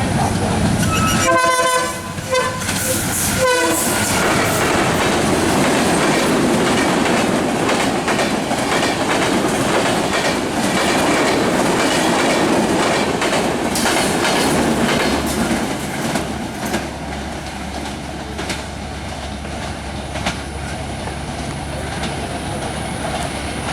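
WDM3A diesel locomotive's horn sounds twice near the start, then a passenger train runs through at speed with a steady rumble and rapid wheel clatter over the rail joints. The clatter eases after about sixteen seconds into a lower rumble.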